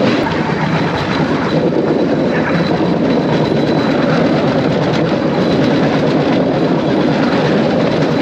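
Bamboo train (norry) running along its rails: the small motor and the wheels clattering over the track make a steady, loud noise.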